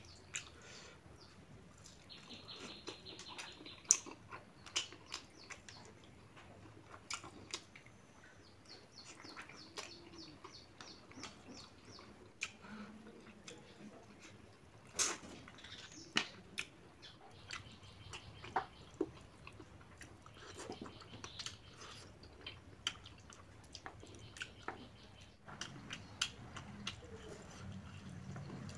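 Close mouth sounds of a man eating boiled pork and rice by hand: chewing and lip-smacking, with many short wet clicks scattered throughout.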